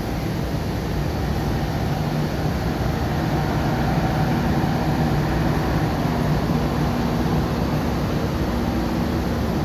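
Passenger train coaches rolling past on the rails, a steady noise of wheels on track.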